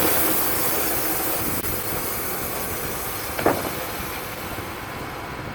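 Wood-Mizer LT35 band sawmill running, its high sawing hiss slowly fading as the cut winds down. One brief sharp sound comes about three and a half seconds in.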